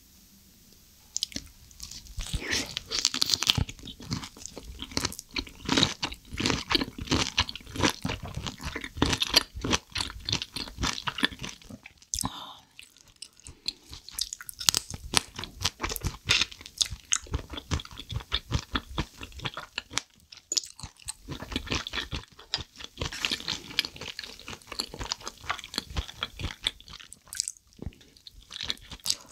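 Close-miked chewing of soy-sauce-marinated raw shrimp: many quick wet clicks and smacks of mouth and teeth, starting about a second in, with short pauses about twelve and twenty seconds in.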